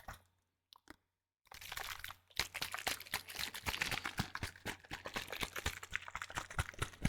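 Liquid sloshing in a plastic spray bottle being shaken close to the microphone, a dense run of rapid splashes and clicks. It starts about a second and a half in, after a brief silence with a couple of light clicks.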